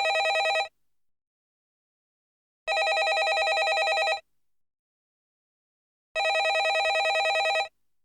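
Landline telephone bell ringing: each ring is a rapid trill lasting about a second and a half, repeating with gaps of about two seconds. One ring ends just after the start, a full ring falls in the middle, and another comes near the end.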